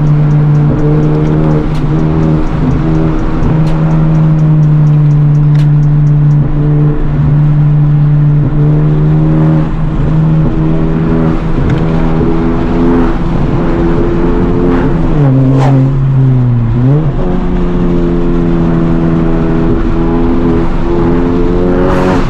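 Honda Civic Type R FL5's turbocharged four-cylinder, with a catless downpipe and resonator delete, droning at a steady cruise under load. Its note dips briefly and climbs back about two-thirds of the way through.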